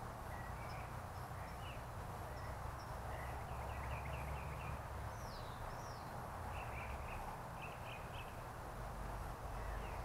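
Small wild birds chirping and twittering, a scatter of short chirps with two quick sweeping whistles about five seconds in, over a steady low hum and hiss of outdoor background noise.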